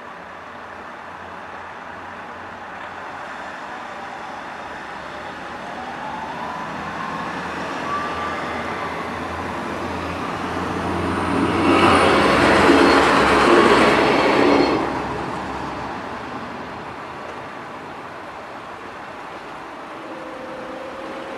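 A train passing a level crossing: its noise builds up slowly, is loudest for about three seconds in the middle, then fades away.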